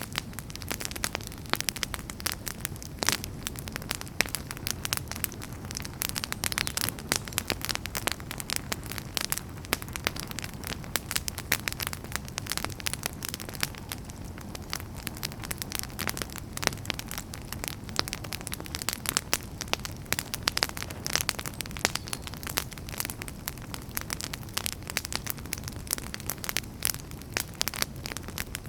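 Wood fire in a fireplace crackling, with dense, irregular sharp pops over a steady low rumble of burning.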